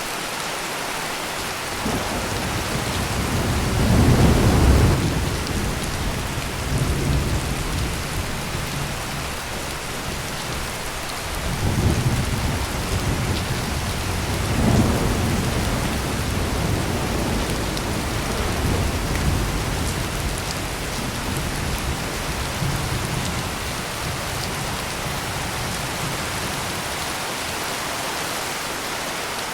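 Heavy rain pouring steadily, with rolling thunder rumbling over it. The loudest peal comes about four seconds in, further rolls follow near the middle, and the thunder dies away toward the end.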